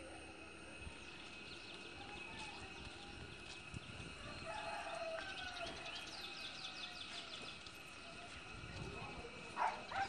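Faint outdoor ambience with birds calling: a quick run of about ten high chirps in the middle, scattered short calls, and a brief louder sound near the end.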